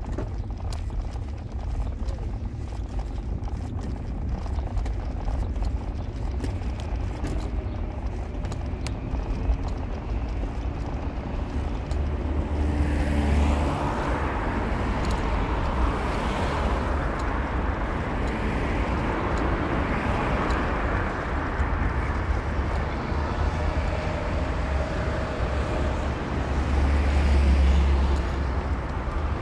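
A car driving on city streets, with steady low engine and road rumble. About twelve seconds in, a broad tyre-and-road hiss swells up and carries on, with two louder low surges, one just after it starts and one near the end.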